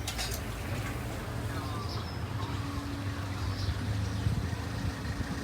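Outdoor background noise: a steady low hum with a few faint, short high chirps.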